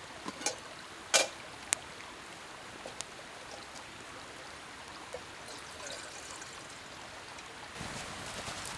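Campfire crackling: a steady hiss with scattered sharp pops, the loudest about a second in.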